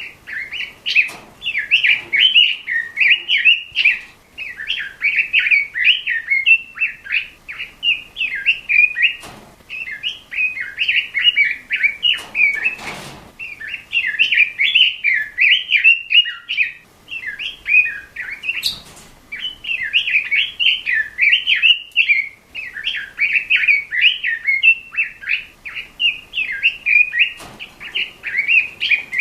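Red-billed leiothrix (Pekin robin) singing a fast, loud warbling song in long rapid phrases broken by short pauses. A few soft knocks sound now and then.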